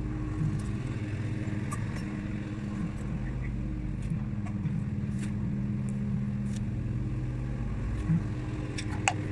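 Car engine running at a steady speed, with a few faint ticks and a short click shortly before the end.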